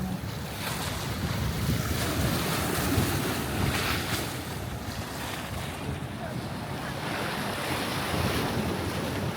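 Sea waves washing onto the beach, with wind buffeting the microphone in a low, steady rumble.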